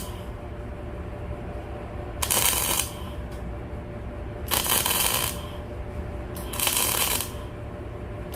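Electric arc welder making short tack welds on steel plate: three brief bursts of crackling arc, each under a second, about two seconds apart, over a steady low hum.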